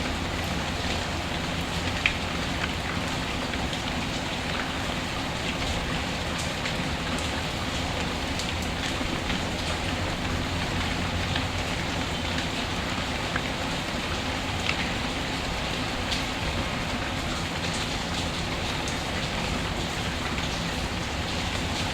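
Steady rain falling, with scattered small sharp ticks.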